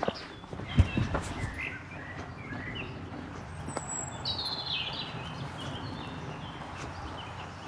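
Birds chirping and singing outdoors, with a livelier burst of song about four seconds in. A few footsteps on the path in the first second or so, over a steady outdoor hiss.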